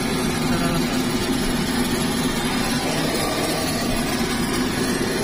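Walter M601 turboprop engine of an L-410 Turbolet running steadily, a continuous even drone with a steady low hum.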